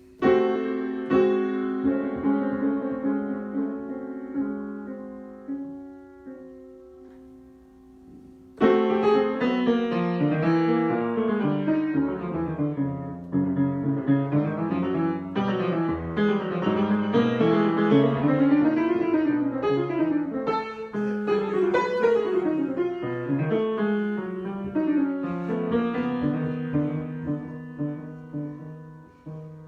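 Piano improvisation: a chord struck and left to ring and fade for about eight seconds, then a sudden loud entry into busy, flowing playing of shifting chords and melody, which thins out toward the end.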